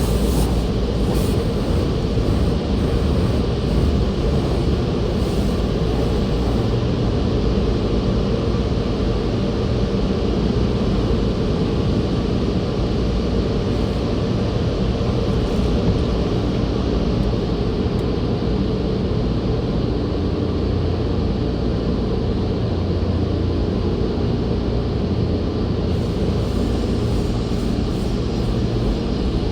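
Tunnel car wash equipment running, a steady loud rumble and hiss.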